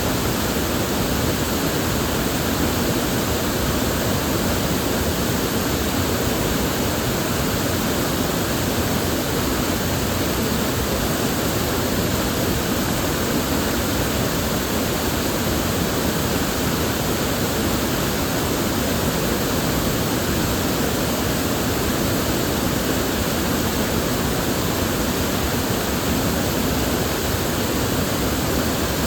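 River water flowing steadily, an even rushing with no breaks or separate splashes.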